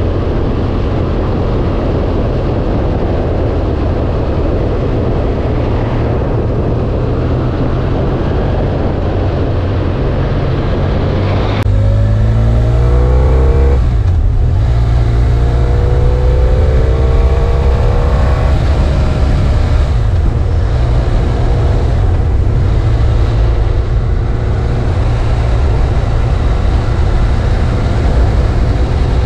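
BMW F800 ST's parallel-twin engine running under way. About twelve seconds in, its note rises twice in pitch as it accelerates.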